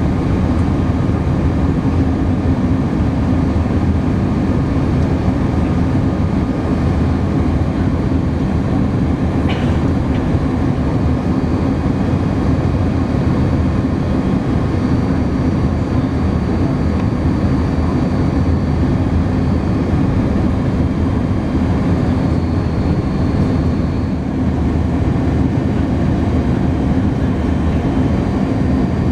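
Steady cabin roar of an Airbus A310-300 in flight: engine and airflow noise with a deep rumble and a steady low hum, heard from inside the passenger cabin. A brief click comes about nine and a half seconds in.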